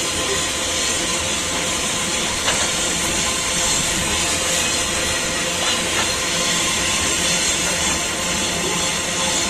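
Open-top steel freight wagons rolling past on the rails: a steady hissing rumble of steel wheels on track, with a few light clicks from the wheels.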